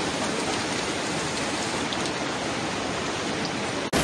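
Heavy rain falling onto a flooded street: a steady, even hiss of drops striking standing water. It cuts off suddenly just before the end.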